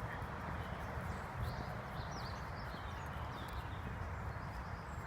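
Outdoor ambience: a steady low rumble with a few faint bird chirps about a second and a half in.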